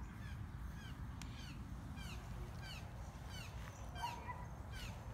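Birds chirping: a steady run of short, high, falling notes, about three a second, over a low rumble.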